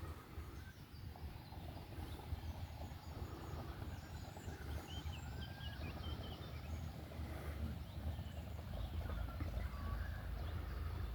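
Outdoor ambience: a steady low rumble with faint, short bird chirps scattered through it. The rumble grows heavier near the end.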